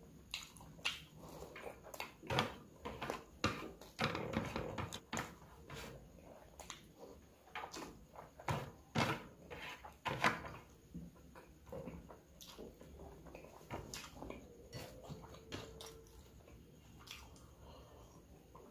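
Close-miked eating by hand: wet chewing and lip smacks, with fingers squishing and scraping food on a plate. Many short, irregular smacks and clicks, busiest in the first half and thinning out later.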